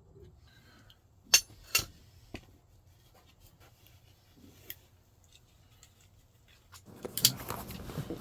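Sharp metallic clicks and clinks from parts and tools being worked on a square-body Chevy truck's door latch mechanism: two loud clicks about a second in, a few lighter ones after, then busier rattling and scraping of metal near the end.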